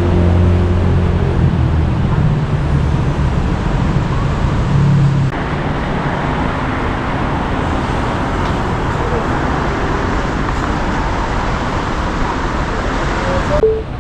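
Road traffic on a city street: a vehicle engine hums low and steady for about the first five seconds, then the sound cuts abruptly to an even wash of traffic noise.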